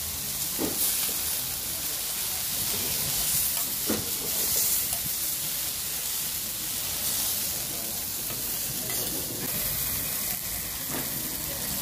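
Tomato slices frying in oil on a flat round griddle: a steady sizzling hiss.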